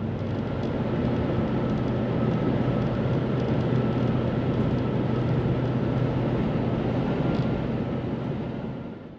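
A car driving: steady engine and road noise with a low hum, fading out near the end.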